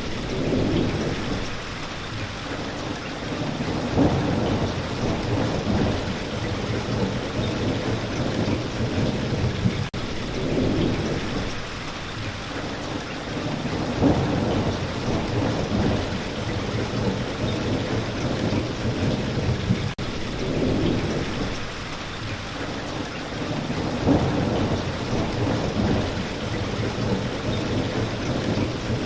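Steady rain falling on leaves and ground, with low rolling thunder that swells and fades every few seconds.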